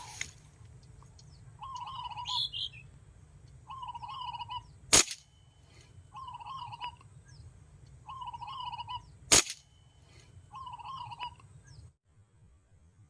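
A bird calling over and over, the same short warbled phrase roughly every second and a half. Two sharp cracks, about four seconds apart, are the loudest sounds, typical of PCP air rifle shots, and the bird keeps calling between and after them. A low rumble cuts out near the end.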